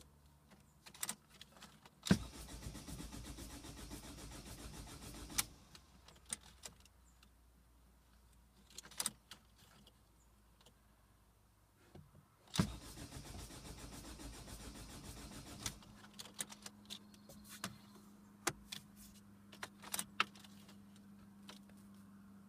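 Ford Fiesta TDCi diesel cranked on the starter twice, each time for about three seconds, without the engine catching: a no-start. Key clicks come before and between the attempts.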